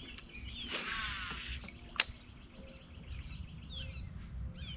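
Small birds chirping repeatedly, with a brief whirring burst about a second in and a single sharp click about two seconds in.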